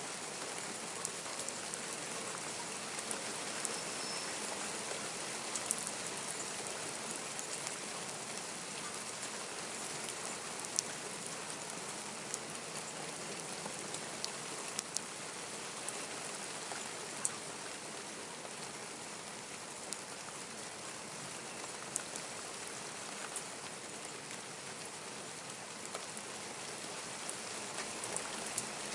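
Steady rain falling, an even hiss with scattered sharper drips and drop impacts close by.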